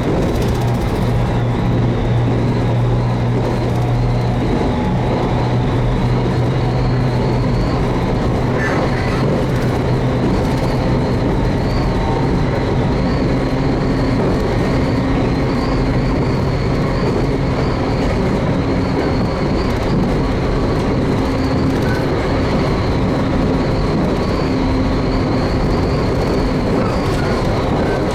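JR Kyushu 813 series electric train running between stations, heard from on board: a steady rumble of wheels and running gear with a thin, wavering high whine. A low hum fades out about eighteen seconds in.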